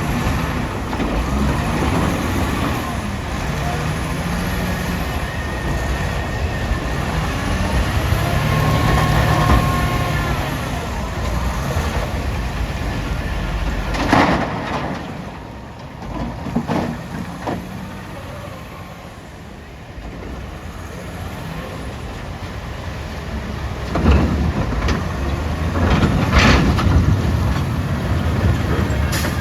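Heavy diesel engine of a Caterpillar 966D wheel loader working, revving up for a few seconds. Several short loud bursts come about halfway through and again near the end.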